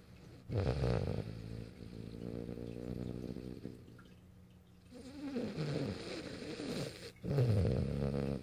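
French bulldog snoring in its sleep: three long snoring breaths of two to three seconds each, the last, about seven seconds in, the loudest.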